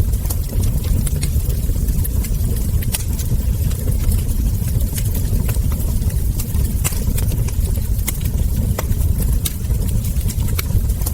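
Wood fire burning: a steady low rumble with irregular sharp crackles and ember pops scattered through, several in some seconds and none in others.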